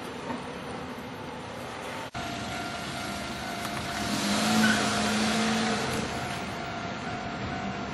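A Kintetsu train running through a railway level crossing: a steady rumble and hiss with faint steady tones. It cuts out for an instant about two seconds in, then swells to its loudest about halfway through and eases off.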